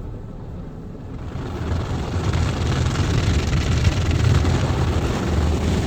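PDQ ProTouch Tandem in-bay car wash running over the car, heard from inside the cabin: a steady rush of noise with a low rumble that swells about a second and a half in and stays loud.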